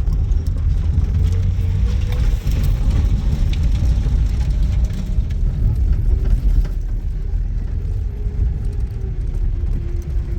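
Car on the move: a steady low engine and road rumble, with a faint tone that drifts slowly in pitch.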